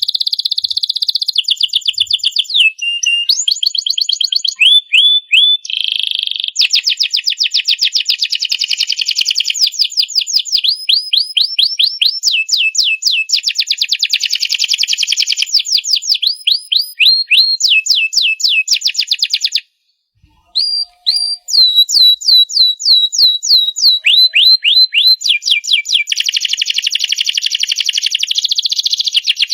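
Domestic canary singing a long song of fast trills, each phrase a run of rapidly repeated high notes that switches to a new pattern every second or two. There is a brief pause about two-thirds of the way through.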